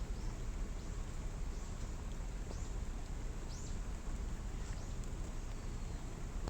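Steady rushing of a waterfall in the rain, with a bird calling in short high chirps about once a second over it.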